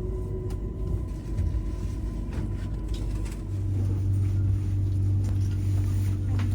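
Low, steady rumble of a passenger train, with a deep hum that comes in and grows louder about three and a half seconds in.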